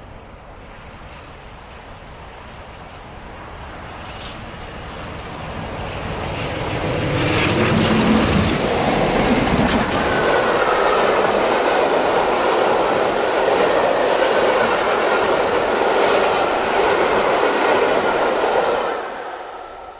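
A train headed by two Class 47 diesel locomotives approaches and passes at speed, loudest about eight seconds in. The coaches then roll past with wheels clicking over the rail joints and a steady wheel squeal, until the sound drops away sharply near the end.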